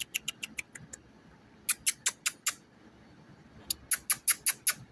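Three quick series of sharp, high chipping calls from a small animal.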